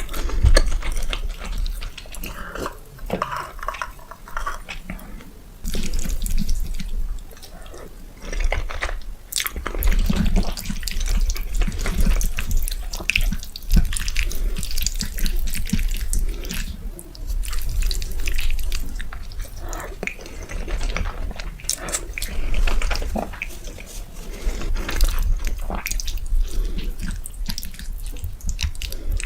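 Close-miked eating: a person chewing a mouthful of food, with many small wet clicks and smacks coming in uneven bursts.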